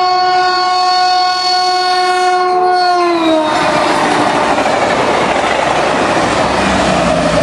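Caltrain commuter train passing at speed: one long, steady horn blast whose pitch drops about three seconds in as the locomotive goes by, then cuts out. The loud rushing rattle of the passing cars follows.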